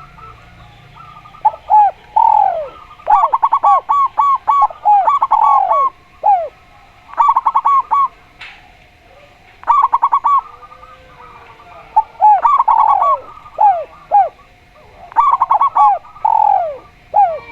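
Spotted dove (tekukur) and zebra dove (perkutut) calling against each other. They give repeated groups of coos every couple of seconds: loud downward-sliding notes mixed with quick strings of short, higher notes.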